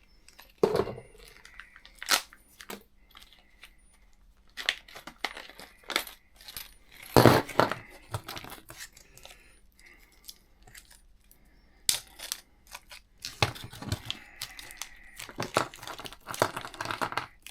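A plastic parts bag being torn open and crinkled, with scattered clicks and knocks of small steel driveshafts being handled. The loudest knock comes about seven seconds in, and a longer stretch of crinkling fills the last few seconds.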